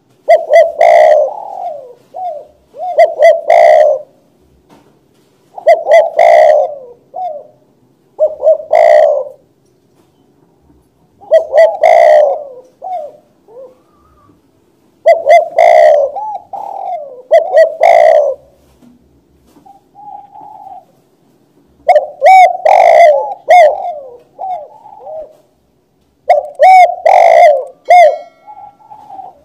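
Spotted dove (tekukur) cooing loudly: its song comes in repeated phrases of a few coos, each phrase a second or two long, with short pauses between.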